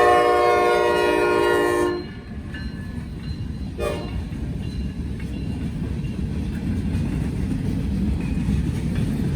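Freight locomotive horn blowing a loud blast that cuts off about two seconds in, then one short toot near four seconds, over the steady rumble of the freight train rolling past.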